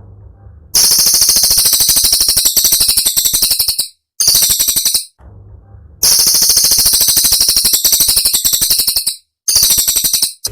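Cililin song in rapid, high-pitched rattling trills, the sharp 'tembakan' (rapid-fire) phrases that bird keepers use as training material. The rattles come in four bursts, two of them about three seconds long, with short pauses between them.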